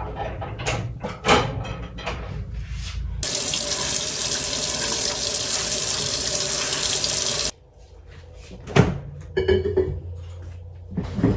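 Kitchen sink tap running in a steady rush for about four seconds, then turned off abruptly, while an item is washed; knocks and clatters of things being handled at the sink come before and after the water.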